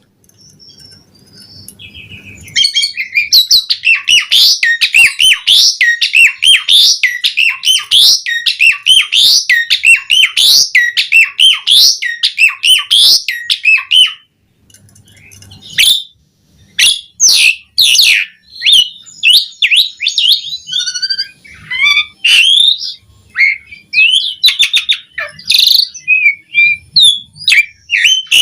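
Asian pied starling (jalak suren) singing: a fast, even run of repeated high chirps for about ten seconds, then after a short pause, a more varied string of chirps and whistles.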